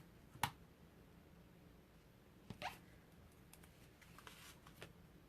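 Near silence with a few faint clicks and brief rustles of paper and card stock being handled: a sharp click about half a second in, a short brushing sound midway, and light ticks near the end.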